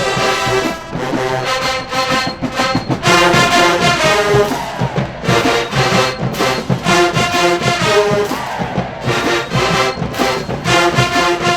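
Marching band playing loud brass chords over drums, the held chords broken by short pauses.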